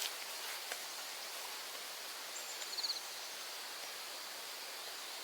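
Outdoor rural ambience: a steady soft hiss, with a brief rapid high-pitched chirping trill a little under three seconds in and a couple of faint clicks near the start.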